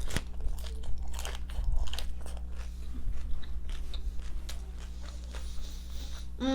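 A person biting and chewing crunchy fried chicken tacos close to the microphone, a string of crisp crunches that thins out toward the end.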